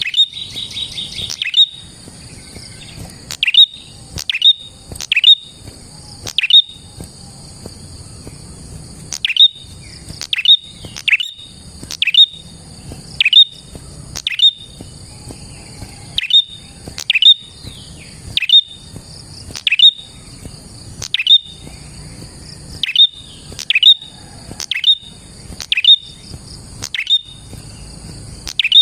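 A prenjak (prinia) calling: a string of sharp, high notes that sweep downward, repeated about once a second, with a fast rattling trill about a second in. A steady high buzz runs under the calls.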